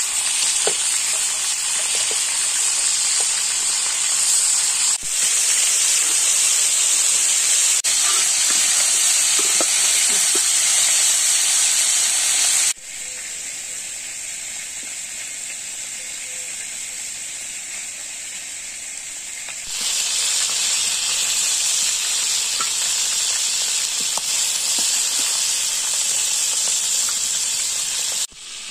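Chicken pieces sizzling in a large aluminium pan over a wood fire: a steady frying hiss with faint small pops. About halfway through the sizzle turns quieter for several seconds, then comes back louder.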